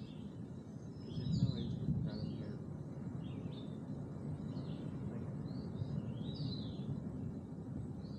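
Birds chirping in short, scattered high calls over a steady low outdoor rumble, which swells briefly about a second and a half in.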